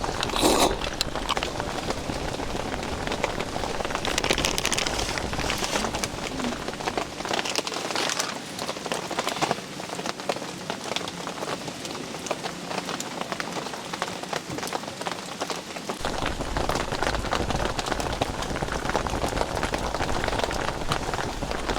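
Steady rain falling, with many sharp individual drop hits on the surfaces close by.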